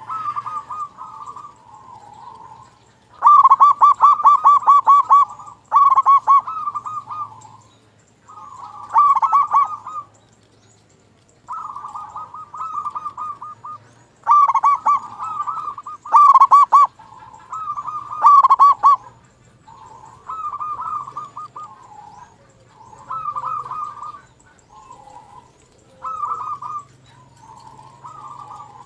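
Local perkutut (zebra dove) singing its cooing song, phrase after phrase, with short gaps between phrases. Each phrase is a run of rapid, rolling coo notes, and some phrases are much louder than others.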